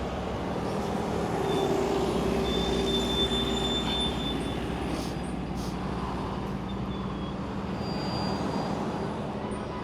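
A large engine running with a steady low hum that swells a little a few seconds in, with a few brief high squeals or whines.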